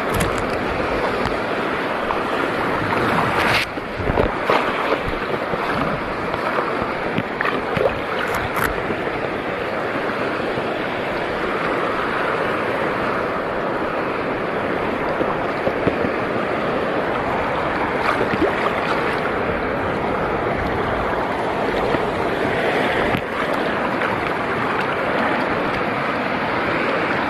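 Sea waves washing steadily, with wind on the microphone and a few brief sharp knocks about three and a half and eight and a half seconds in.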